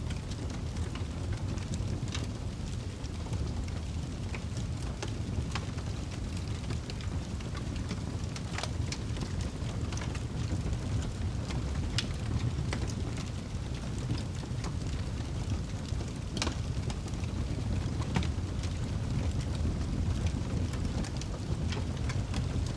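Wood fire crackling in a fireplace: a steady low rumble with scattered sharp pops and snaps at irregular intervals.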